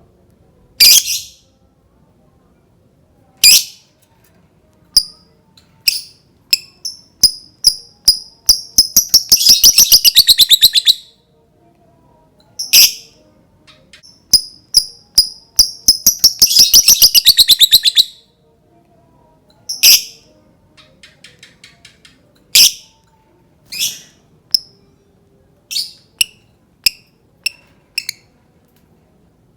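Lovebird calling: sharp, high chirps that twice speed up into long, rapid chattering runs of repeated notes, the long 'ngekek' chatter, with single chirps between.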